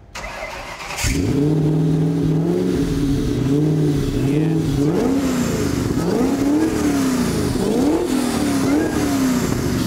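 Supercharged 4.6-litre DOHC Ford Aluminator V8 starting for the first time: it catches about a second in and idles steadily, then is blipped repeatedly, the revs rising and falling over and over, before settling back. It sounds healthy.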